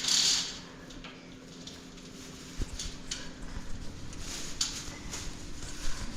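A short burst of hiss, then scattered light knocks and clicks over a steady low hum.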